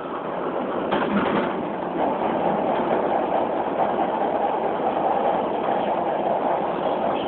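Beijing Subway Line 4 train running through the tunnel, heard from inside the carriage: a steady rumble and rush of wheels on track that grows a little louder about two seconds in.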